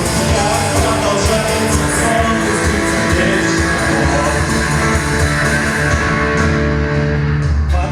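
Live rock band playing loud, with electric guitar over bass and drums.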